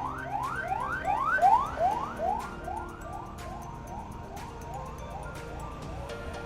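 Ambulance siren in a fast yelp, each rising sweep repeating about three times a second; it grows loudest about a second and a half in, then fades.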